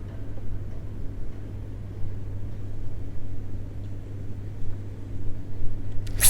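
Wind buffeting the microphone, a steady low rumble that swells and eases. A sudden loud noise cuts in right at the end.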